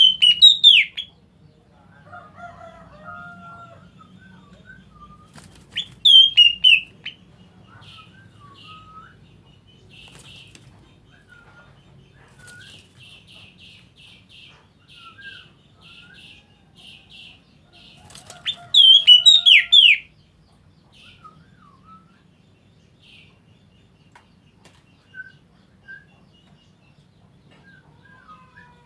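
A bird singing: three loud bursts of sharp, falling whistled notes, with quieter chirps and a quick run of short repeated notes between them, over a steady low hum.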